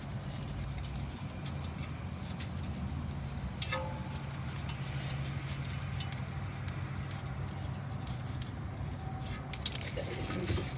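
Hand tools and metal parts clinking while a front brake caliper is being unbolted: one ringing metal clink a little under four seconds in and a few sharp clicks near the end, over a steady low hum.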